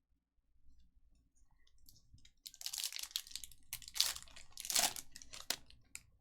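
Trading card pack wrappers being torn open and crumpled. The crinkling starts faint and grows into a run of loud crackling rustles from about two and a half seconds in.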